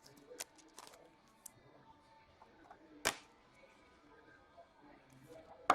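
Trading cards being handled and flipped: scattered soft clicks and taps of card on card, with a sharper snap about three seconds in and another near the end.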